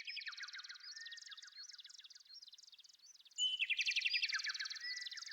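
A songbird singing two long phrases of rapid, repeated trilled chirps, the second beginning a little past halfway.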